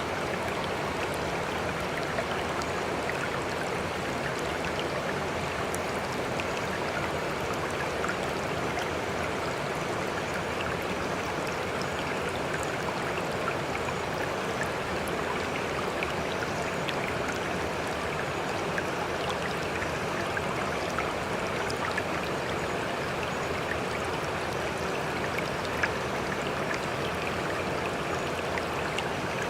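Sea water rushing steadily, with small splashes and drips scattered throughout and no separate waves rising and breaking.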